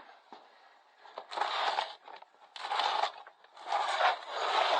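A heavy bag being shoved and dragged across a surface: three rough, crunching scrapes after a quiet first second.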